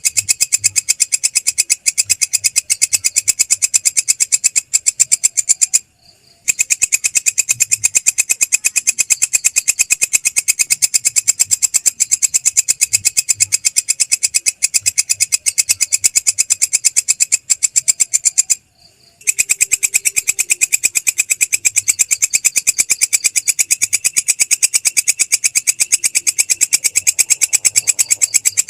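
Belalang krek insect calling: a loud, high-pitched, fast and steady train of rasping pulses, breaking off twice for about half a second.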